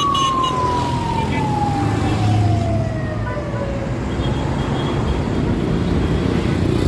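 Low rumble of vehicle traffic, with a single tone sliding steadily down in pitch over the first four seconds, as a siren winds down.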